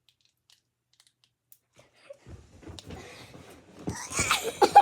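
Near silence, then, about two seconds in, rustling and handling noise that grows louder toward the end, with a short voice sound near the end.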